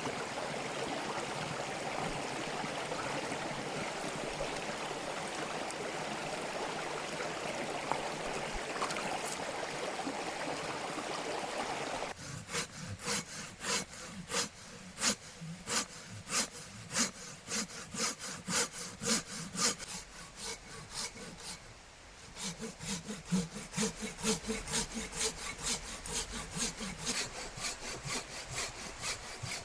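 Stream water rushing steadily, then about twelve seconds in a hand saw cutting firewood in rhythmic back-and-forth strokes, about two a second. The strokes pause briefly and then resume a little quicker.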